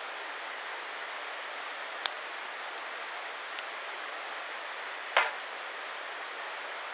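Campfire burning: a few sharp pops of burning wood, the loudest about five seconds in, over a steady hiss.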